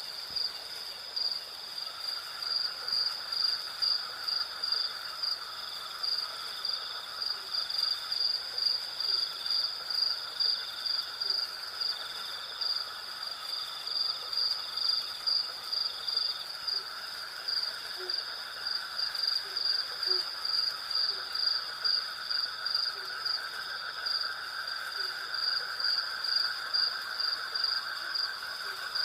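Night insect chorus of crickets: a loud, high chirping that pulses about twice a second over a second high, steady trill and a lower, steadier buzzing that grows stronger in the second half. Faint short low calls come now and then.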